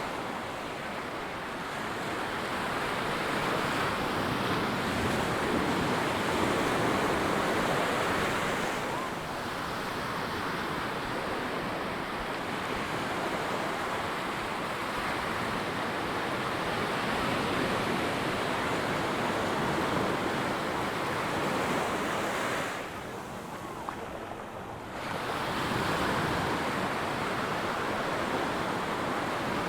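Ocean surf breaking and washing up the beach in a steady rush that swells and eases, with a brief lull about three-quarters of the way through.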